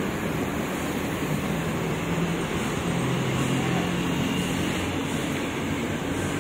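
Sleeper coaches of a departing express train rolling slowly past a platform: a steady rumble of wheels on rail, with a faint low hum in the middle.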